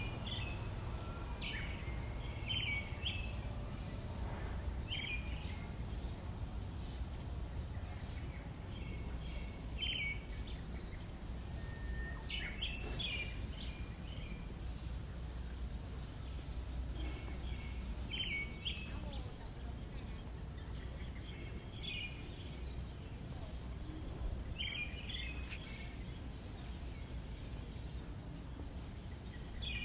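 Small birds chirping in short, quick calls every couple of seconds over a steady low rumble of distant city traffic.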